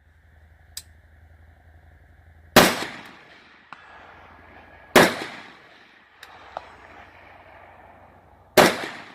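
Three rifle shots from an AR-style precision rifle with a 20-inch barrel, the second about two and a half seconds after the first and the third about three and a half seconds after that, each followed by a trailing echo. Faint ticks come between the shots.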